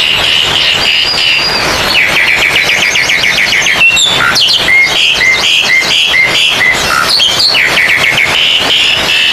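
Several oriental magpie-robins (kacer) singing loudly at once, a dense overlapping run of rapid repeated notes and trills with no pause.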